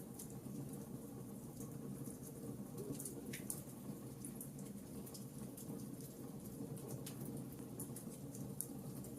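Wood fire crackling: irregular sharp pops and snaps over a steady low rushing of flames.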